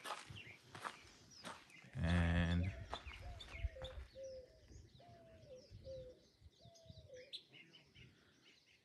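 Birds calling outdoors: a run of about five short, low whistled notes, each dropping in pitch at the end, with faint higher chirps over them. About two seconds in there is a brief, louder low-pitched sound.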